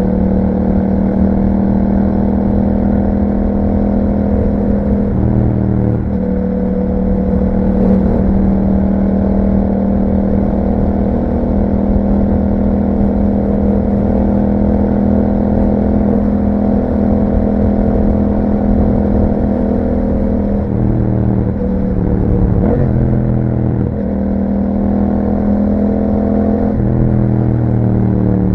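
2021 Yamaha MT-07 motorcycle's 689 cc parallel-twin engine running through an aftermarket Akrapovic exhaust with a dB killer, under way at a steady engine speed. Its note rises and drops several times near the end as the throttle and gears change.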